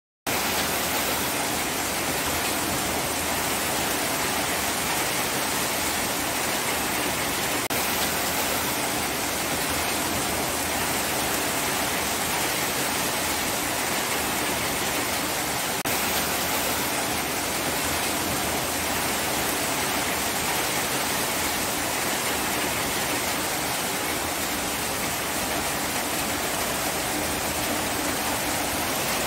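Steady heavy rainfall, a dense even hiss of falling water that starts abruptly just after the beginning and holds at a constant level.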